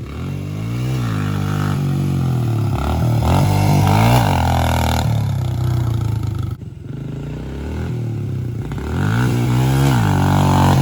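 Dirt bike engine revving up and down, its pitch climbing and falling several times, with a short break about six and a half seconds in.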